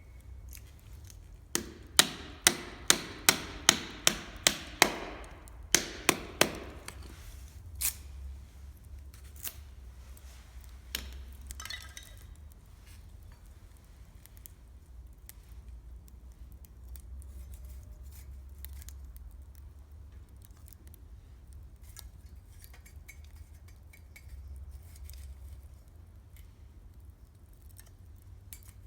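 A run of about a dozen sharp knocks, roughly three a second, a couple of seconds in, then the sparse ticks and pops of a wood campfire crackling over a low steady rumble.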